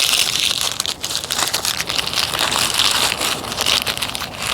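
Dense crackling and rustling of gear being handled close to the microphone, a steady hiss dotted with many small clicks.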